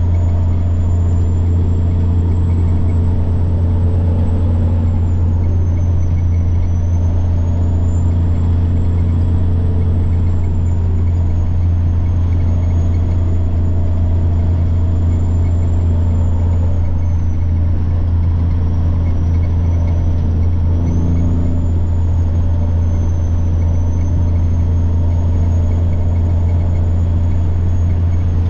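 Semi truck's diesel engine running under way with a steady low drone, over it the high thin whine of the turbocharger slowly rising and falling in pitch as the load changes.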